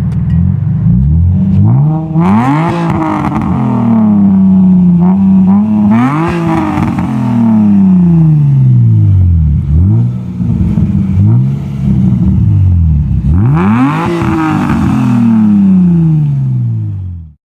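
Hyundai Tiburon engine through a Borla cat-back exhaust, revved sharply three times, the pitch falling back slowly after each rev, before the sound cuts off near the end.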